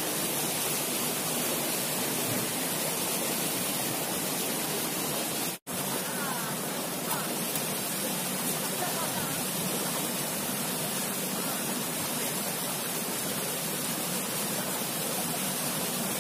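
Steady rushing of water from a waterfall, an even noise with no rhythm. The sound breaks off for an instant about five and a half seconds in, then carries on unchanged.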